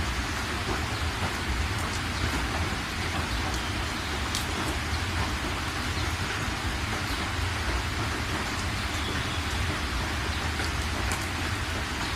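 Steady rain falling on surfaces, with a low rumble underneath and a few faint drop ticks.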